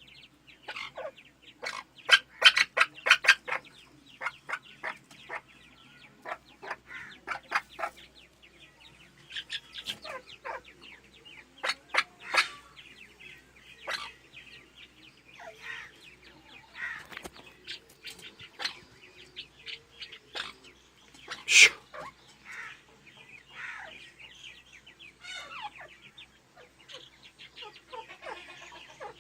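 Captive fowl-like birds calling: short clucking calls in quick runs, with scattered chirps and one louder call about three quarters of the way through.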